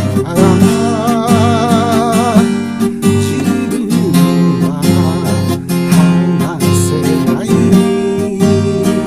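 Song with an acoustic guitar strumming chords steadily. A wavering melody line is held over it for the first two seconds or so.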